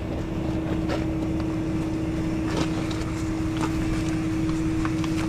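Truck engine idling steadily with a constant hum, under a few light clicks and taps of equipment being handled.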